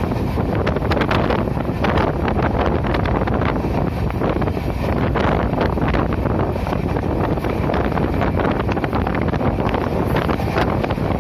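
Wind buffeting the microphone over the steady running noise of a moving passenger train, with a continual rattle of short clicks from the wheels and coach.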